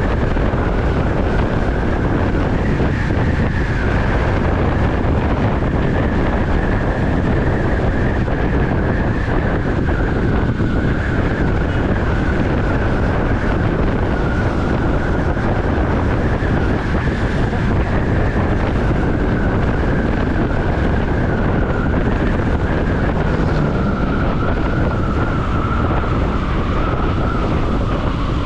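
Bajaj Pulsar NS200 single-cylinder motorcycle running steadily under way, heard under heavy wind rush on the microphone. A steady high whine eases slowly lower through the stretch.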